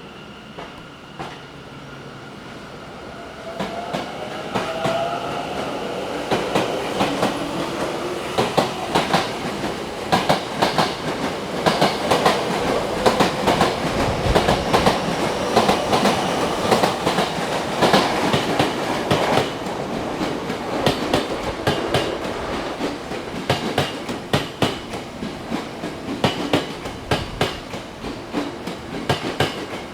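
Tokyo Metro 10000 series electric train running through the platform, its wheels clacking over the rail joints. The sound builds a few seconds in, is loudest in the middle, and the clacks come further apart near the end as the train slows.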